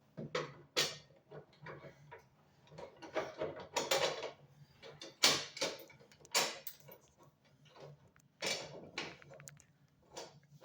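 Irregular metallic clicks and clanks of hand tools and the steel blade being worked onto a Toro lawn mower's blade mount.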